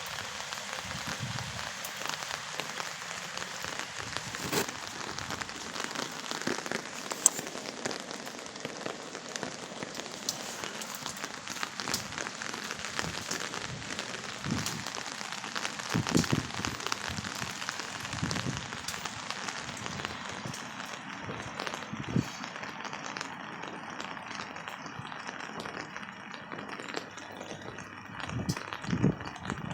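Heavy rain pouring down, a steady hiss thick with pattering drops, with a few louder single drip impacts scattered through it.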